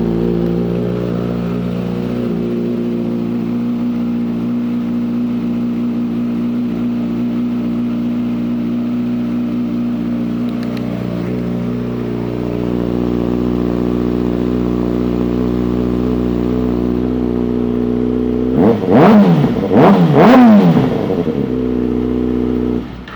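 A 2019 Kawasaki Ninja ZX-6R's 636 cc inline-four idles steadily through an aftermarket Two Brothers exhaust. Near the end it is blipped twice, each rev rising and falling quickly, and then it is switched off.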